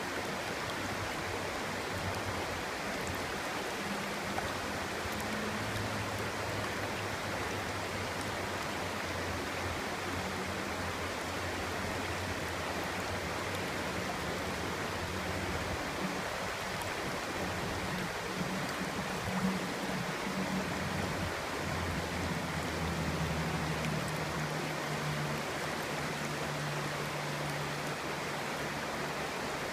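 Clear stream babbling steadily, with low tones underneath that shift in pitch now and then.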